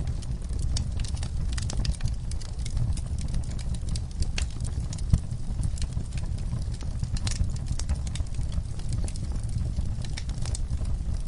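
Wood fire in a fire pit crackling and popping: many sharp, irregular pops from the burning logs and coals over a steady low rumble, with one louder pop about five seconds in.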